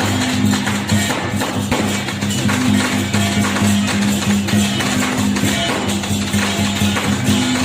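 Temple procession percussion band of drums, gongs and cymbals playing continuously, the cymbals clashing densely over a sustained low tone.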